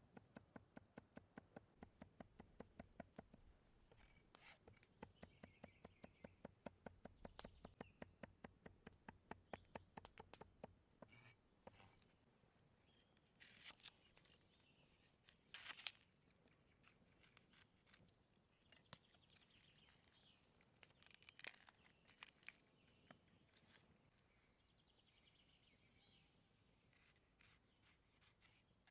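Rapid, even knife chopping on a cutting board, about four to five strokes a second, stopping about ten seconds in. Scattered single taps and scrapes of food handling follow.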